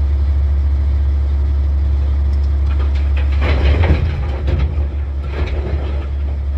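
Vehicle engine idling with a steady low drone, with a couple of brief rushes of noise about halfway through.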